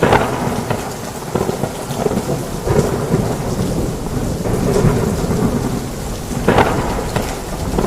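Heavy rain falling steadily with low rolling thunder, and a few sharper cracks standing out: at the start, about three seconds in, and near the end.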